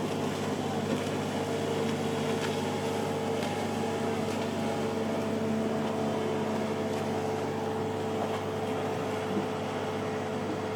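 Boat engines running steadily, a continuous hum with several held tones and no sharp events.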